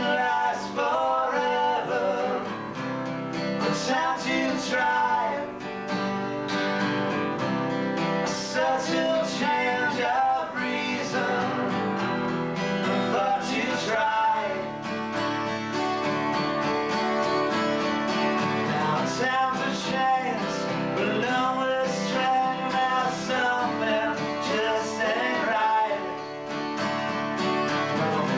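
Acoustic guitar music played live, strummed chords with a wavering melody line over them, recorded through a basic VHS camcorder microphone.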